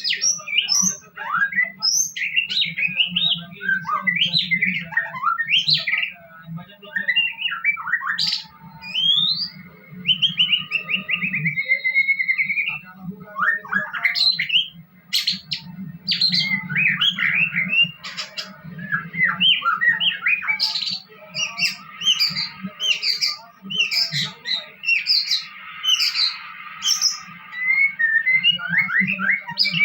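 Murai batu (white-rumped shama) singing vigorously: a long, fast run of varied whistles, rising and falling glides and harsh chattering notes, with hardly a pause. A steady low hum sits underneath.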